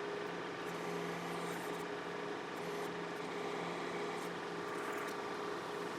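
John Deere 4052R compact tractor's three-cylinder diesel running steadily while powering the 485A backhoe, with a steady whine over the engine note.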